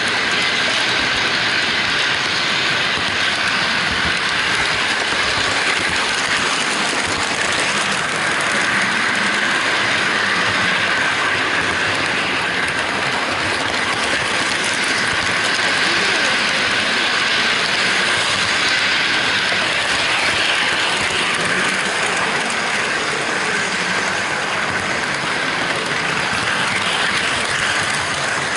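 HO-gauge model freight train running on the layout track, heard from a camera riding on one of its container wagons: a steady rolling rattle of small metal wheels on the rails.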